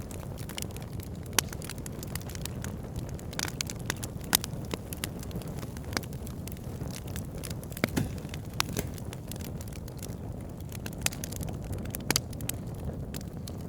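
Wood fire burning in a fireplace, with frequent sharp crackles and pops, a few louder than the rest, over a steady low rumble of flames.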